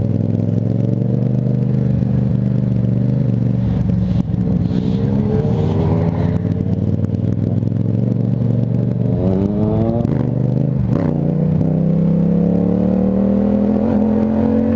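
Motorcycle engine running under way at close range, its pitch rising and falling with the throttle: a sharp drop about ten seconds in, then a slow climb.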